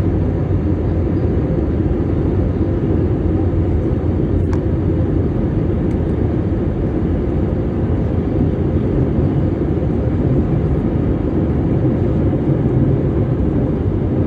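Steady low rumble of airliner cabin noise from the jet's engines, level throughout, with a faint click about four and a half seconds in.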